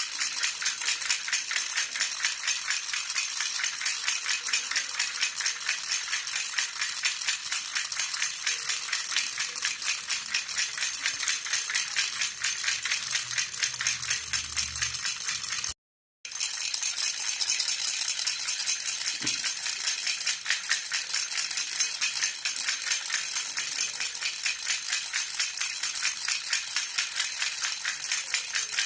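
Jhunjhuna baby rattle shaken continuously, giving a fast, even jingling. It cuts out for a split second about halfway through, then goes on.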